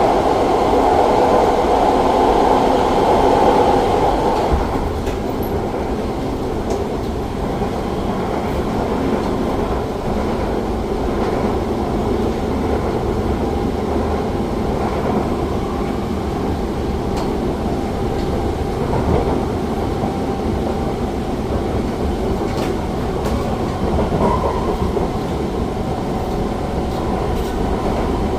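Siemens C651 metro train heard from inside the car while running between stations: a steady rumble of wheels on rail. A louder, higher band of running noise fades out about four and a half seconds in, leaving the lower steady rumble.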